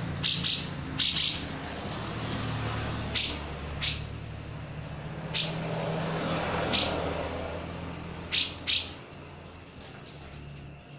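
Grey-cheeked bulbul (cucak jenggot) giving loud, sharp, short calls, about ten in all and often in quick pairs, over the steady hum of passing traffic that fades near the end.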